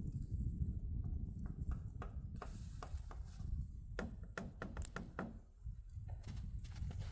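Irregular knocks and clicks, several in a cluster about two-thirds of the way in, over a steady low rumble.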